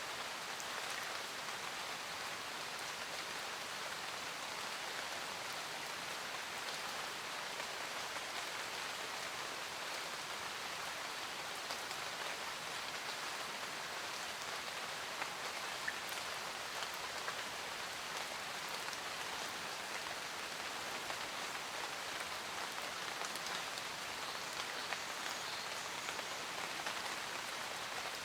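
Steady rain falling, a dense even patter with scattered individual drops ticking.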